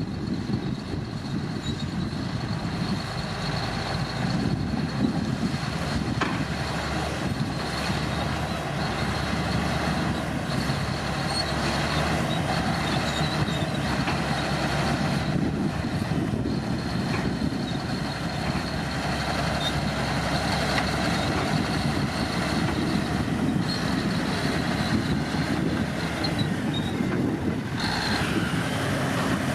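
Komatsu D65P crawler bulldozer working: its diesel engine runs steadily under load, with a thin steady high whine over the rumble.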